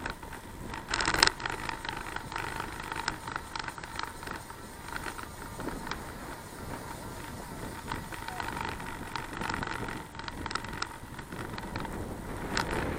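Bicycle riding noise: a steady rush with scattered clicks and rattles, and a louder burst of noise about a second in.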